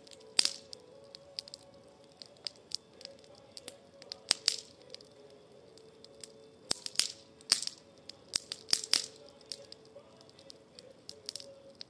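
Wood campfire crackling, with irregular sharp pops and snaps; a cluster of louder pops comes a little after the middle.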